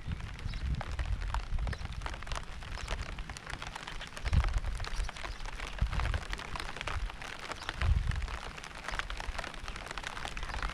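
Steady rain with many drops pattering, and dull low rumbles rising and fading about four, six and eight seconds in.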